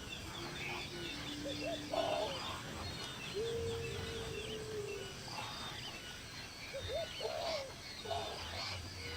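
Several birds calling: a busy chatter of short high chirps throughout, with a few long, low, steady notes held for a second or two.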